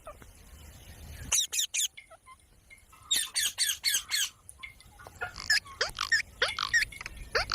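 Pet parrot squawking in short, harsh calls. A quick burst of three comes about a second and a half in, a run of about six follows around three seconds in, and more calls with sliding pitch come near the end.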